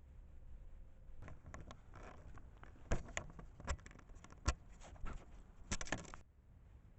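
Raccoons rummaging close to a trail camera: a run of scrapes, rustles and clicks with a few sharp knocks in the middle and near the end, cutting off abruptly.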